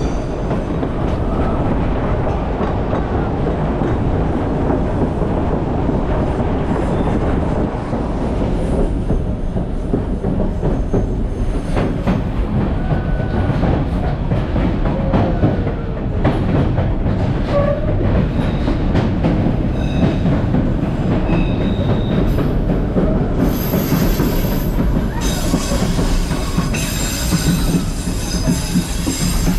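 Skagway passenger train running on the rails: a steady rumble of wheels on track, with thin wheel squeal here and there that becomes a strong high squeal about the last six seconds.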